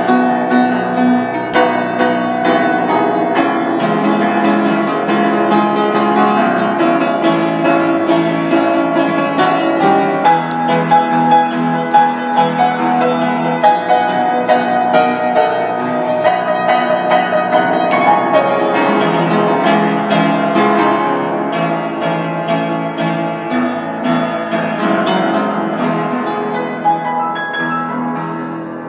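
Solo piano playing a praise-and-worship tune with many notes in quick succession. Near the end it thins out and gets quieter as the piece draws to a close.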